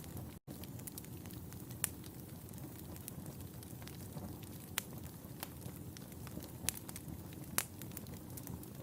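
Wood fire in a fireplace crackling over a steady low rush, with scattered sharp pops; a handful of louder ones stand out. A split-second gap of silence about half a second in.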